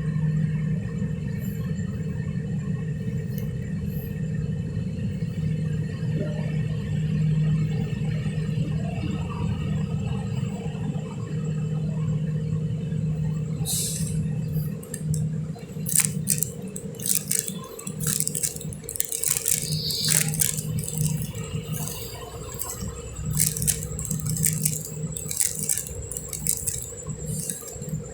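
A diesel train engine running with a steady low hum. From about halfway through, irregular metallic clanks, clinks and rattles come in, typical of a train's wheels, rails and couplings during slow shunting moves.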